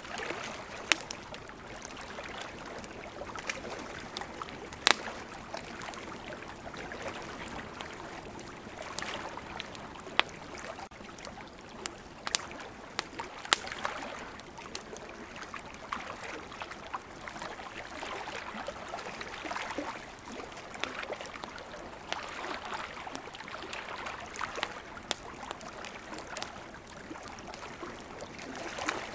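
Wood campfire crackling, with sharp pops every few seconds, over a steady wash of ocean surf that swells and eases.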